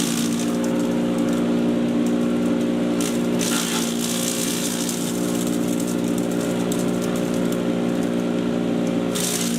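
Patriot 1.5-HP electric chipper shredder running with a steady motor hum, with a brief rush of hissing noise about three seconds in and again near the end.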